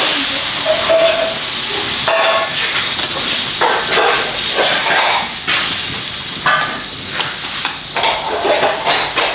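Meat and tomato slices sizzling in a black pan over a wood fire. Water is poured in near the start, and the sizzle eases a little. Then come irregular scraping strokes as the food is stirred with chopsticks.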